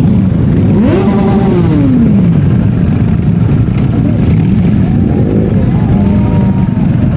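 Superbike engine revving loudly: the revs climb about a second in, hold briefly and drop away, with smaller blips of the throttle later on.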